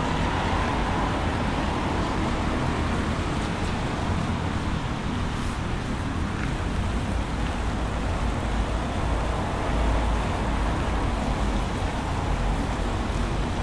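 Heavy rain falling with the steady low rumble of road traffic from passing cars.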